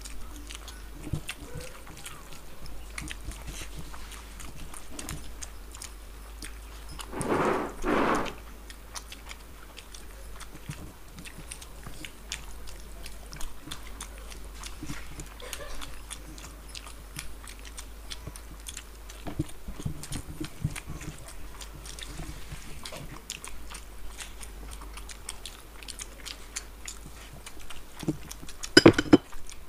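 Close-miked chewing and mouth sounds of people eating rice and curry with their hands, full of small wet clicks and smacks. Two louder rushing bursts come about seven seconds in, and a sharp loud sound comes near the end.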